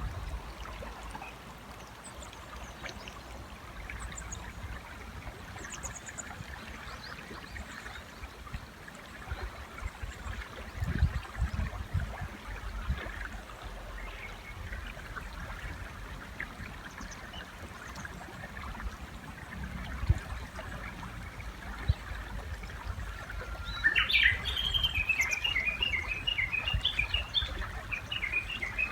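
A river running steadily. Near the end, a Japanese bush warbler sings: one long, low, flat whistle that leaps up into a flourish, then a rapid run of quick repeated notes. Faint high chirps of small birds are heard in the first half.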